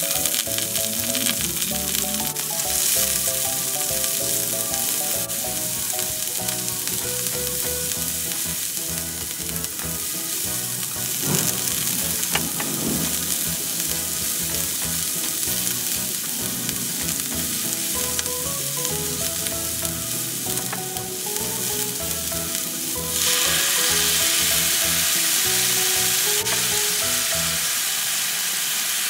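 Chopped onions, garlic, spring onions and chilli sizzling in hot oil in a nonstick pan, stirred with a wooden spatula. About two-thirds of the way through, the sizzle turns louder and hissier once a liquid sauce is in the pan, and potato cubes go in near the end.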